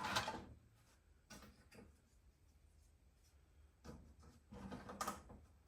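Faint clicks and clinks of sockets and tools being picked up and set down while searching a tool box for the right size, with a short run of louder handling noise and a sharp click near the end.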